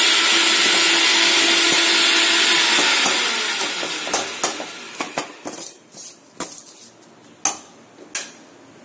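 Onions, tomatoes and mint leaves sizzling as they fry in a metal kadai; the sizzle fades after about three seconds. Then a stirring spoon knocks and scrapes against the pan about eight times.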